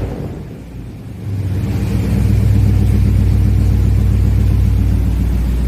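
Squarebody Chevy truck engine coming down from a rev, then about a second in settling into a steady low idle.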